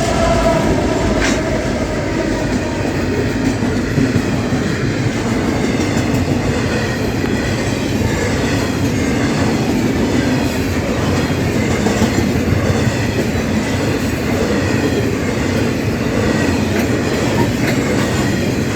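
Locomotive-hauled freight train passing close by: its wagons roll over the rails with a steady rumble and clatter of wheels.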